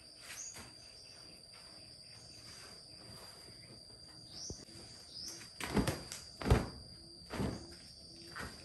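Steady high-pitched insect drone with scattered faint ticks, and three loud knocks close together in the second half.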